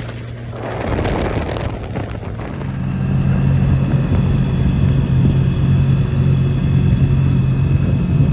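Engine of a 2007 Sea-Doo supercharged 215 personal watercraft, a Rotax 1503 three-cylinder, on a test pull: uneven running for a couple of seconds, then it swells about two and a half seconds in and holds a loud, steady drone at high revs, with a steady high-pitched whine above it.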